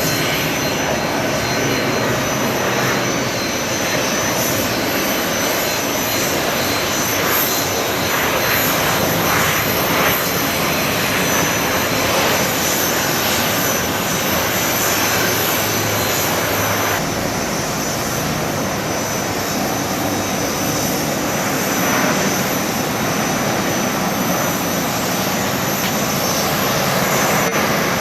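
Jet airliner engines running with a steady, continuous rushing noise and a few faint steady high whines.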